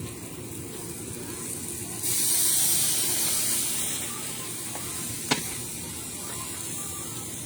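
Hiss over a grill cooking chicken wings: a loud burst starts suddenly about two seconds in and fades over the next two seconds. A single sharp click follows a little past halfway.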